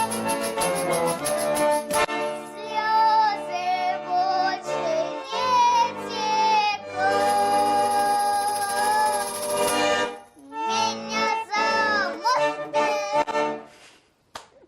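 A song sung with vibrato to accordion accompaniment, with one long held note in the middle; the music ends about a second before the end.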